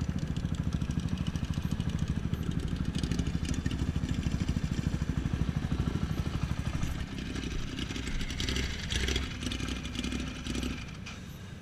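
KTM Duke 690's single-cylinder engine idling with an even, fast pulsing beat. About seven seconds in, the beat stops and the sound turns quieter and uneven.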